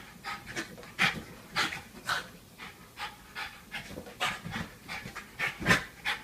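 A dog panting: quick, rhythmic breaths, about two to three a second.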